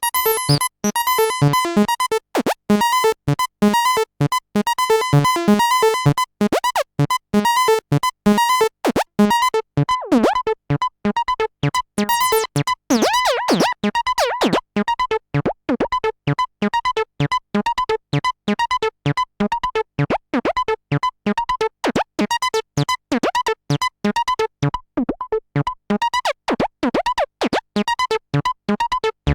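Behringer TD-3-MO, a 303-style bass synthesizer, playing a fast sequenced line of short, clipped notes, with gliding sweeps for a few seconds around the middle.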